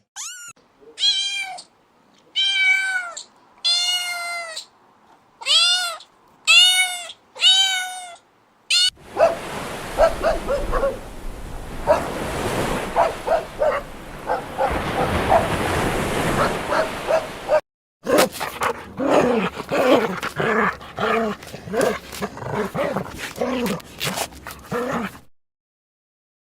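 A cat meows over and over for about the first nine seconds, each meow short, rising and then falling. After that comes a noisy stretch full of many short animal cries, then a quick run of short, repeated calls from animals that cannot be named.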